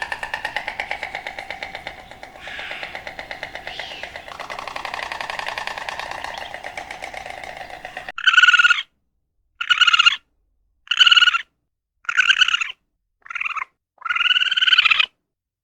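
A farm animal calling: a long, rapidly pulsing call for about eight seconds, then a run of short, separate calls, each under a second and arching in pitch, with dead silence between them.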